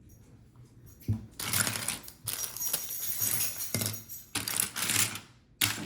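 Small plastic LEGO pieces clattering and rattling as a hand rummages through a pile of them, searching for a missing piece; the rattling starts about a second in and comes in several bouts with brief pauses.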